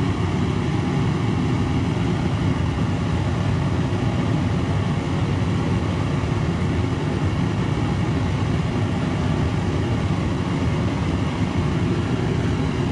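Homemade black iron pipe propane forge burner running lit, a steady low rushing flame, burning after the regulator pressure was turned up.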